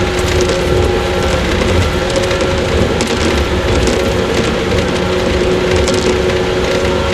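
Running sound inside a JR 115-series electric train's motor car: a steady rumble of wheels on rail with a constant drone from the running gear, the train moving at an even speed.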